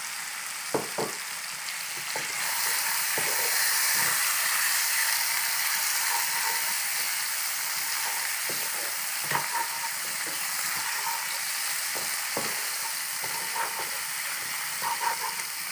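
Ground spice paste with lemongrass, salam leaves and galangal sizzling in hot oil in a non-stick wok, stirred with a wooden spatula. The sizzle grows louder about two seconds in, and the spatula scrapes and knocks against the pan here and there.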